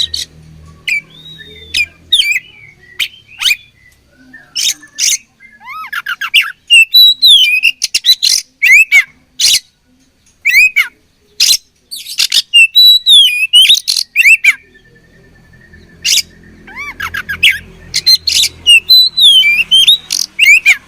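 Oriental magpie-robin (kacer) singing loudly: rapid sharp notes mixed with rising and falling whistles, in bursts with short pauses. A low hum sits under the song near the start and again from about two-thirds of the way through.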